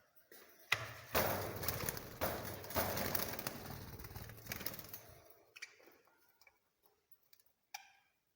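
Small pet cage birds with a burst of rustling noise lasting about four seconds, fading out, followed by a few faint clicks.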